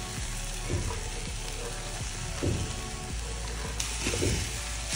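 Onions, moong dal and chopped zucchini frying in oil in a heavy pot, a steady sizzle with a wooden spatula scraping and knocking against the pot a few times as it stirs. The sizzle turns brighter a little before the end.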